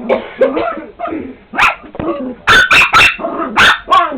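Dog barking repeatedly: softer sounds in the first second, then a run of sharp, loud barks from about one and a half seconds in, several in quick succession.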